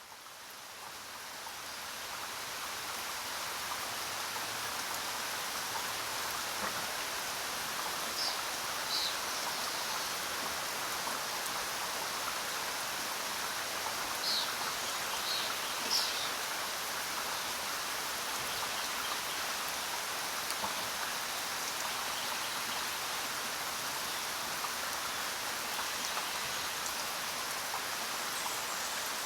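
Steady rain falling, fading in over the first couple of seconds, with a few short high bird chirps about a third of the way in and again near the middle.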